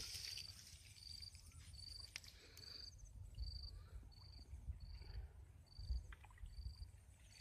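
Faint insect chirping: a short, high chirp repeated evenly about one and a half times a second, typical of a cricket, over a low rumble.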